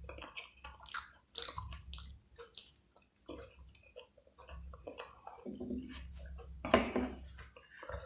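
Close-miked chewing and eating: wet mouth smacks and small clicks come one after another, with a louder smack or bite near the end.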